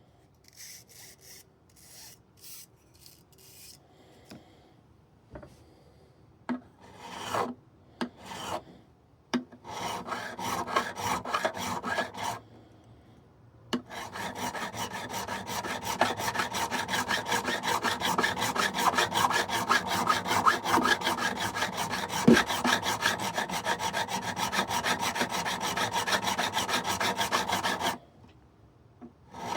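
Frets of a Martin D-16 acoustic guitar being leveled: a leveling tool rubbed back and forth across the fret tops. A few scattered strokes come first, then from about halfway a fast, even back-and-forth rubbing that stops shortly before the end.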